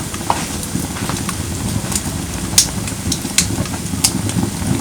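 Firewood burning in a fire pit: a steady low rush of flame with sharp crackles and pops every second or so, the loudest a little past halfway.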